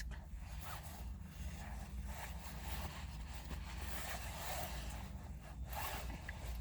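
Close handling noise: clothing rustling and scraping near the microphone, over a steady low rumble, with a couple of brief louder rustles about five seconds in.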